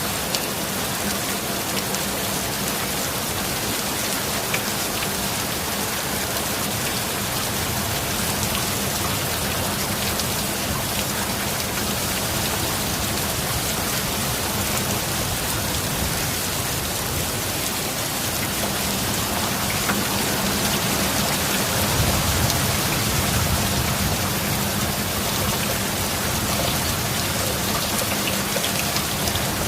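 Heavy rain falling in an even, steady hiss of drops, with a steady low hum underneath.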